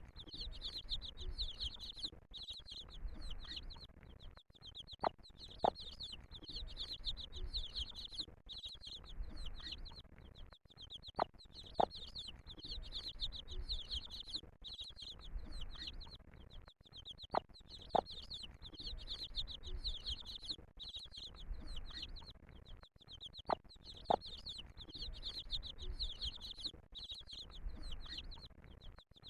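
A brood of chicks peeping continuously, many rapid high-pitched peeps overlapping. About every six seconds there is a pair of short, sharp sounds.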